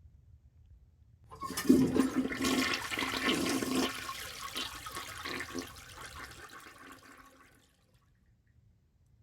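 Toilet flushing: a sudden rush of water about a second in that tapers off over several seconds and dies away.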